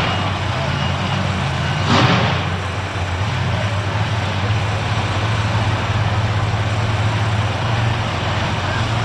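Monster truck engine running at a steady low rumble, with a short loud burst about two seconds in.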